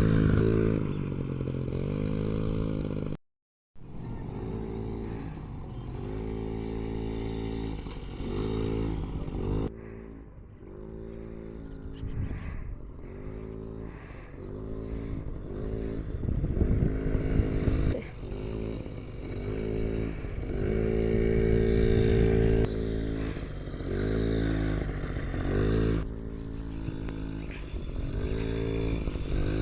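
Yamaha PW50 49cc two-stroke mini motorcycle engine being ridden, revving up and easing off again and again, its pitch rising and falling with each opening of the throttle. The sound breaks off briefly a little over three seconds in and jumps abruptly at several edit cuts.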